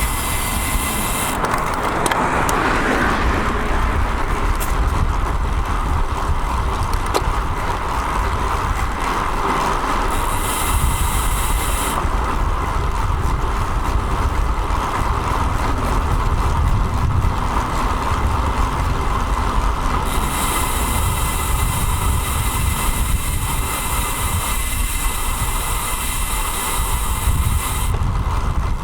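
Steady wind and road noise on a bike-mounted action camera's microphone while riding a road bike, with the low rumble of road traffic.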